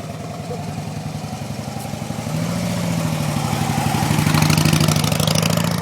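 Motorcycle engine running and pulling away, its steady note growing louder from about two seconds in and peaking near the end.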